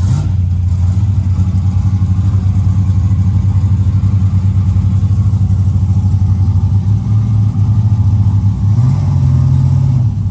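Loud car engine idling with a rapid, regular pulsing beat, its pitch rising briefly near the end as it is lightly revved.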